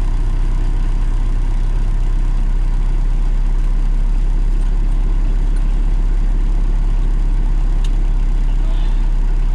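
Peterbilt 359 dump truck's Detroit diesel engine idling steadily, heard from inside the cab, with a deep, even low hum.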